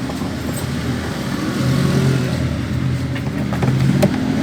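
A motor or engine running with a steady low hum, growing louder and rising slightly in pitch about one and a half seconds in.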